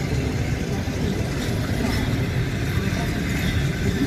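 Passenger coaches of a departing train rolling past at low speed: a steady rumble of wheels on the rails.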